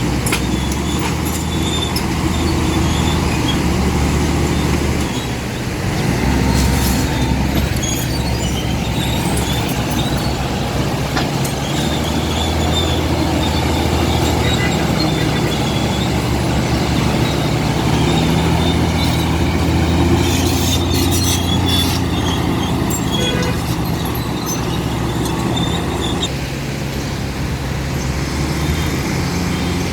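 Komatsu D65P crawler bulldozer's diesel engine working under changing load, its pitch stepping up and down, with scattered high metallic squeaks and clinks throughout.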